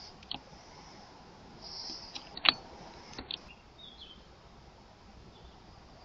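A few short, sharp clicks and knocks, one much louder than the rest about two and a half seconds in, over a faint steady hiss.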